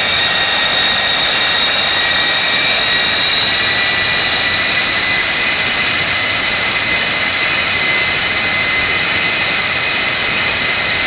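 Jet aircraft engine running loud and steady: a dense roar with a high, even turbine whine over it.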